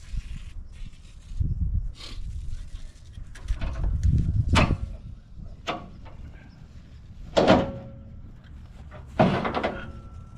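Metal clanks and scrapes from the stiff, unused T-handle and pin on a truck bed's hoist boom being worked loose after a spray of WD-40. There are several sharp knocks, the loudest about seven and a half and nine seconds in, one of them leaving a brief ring.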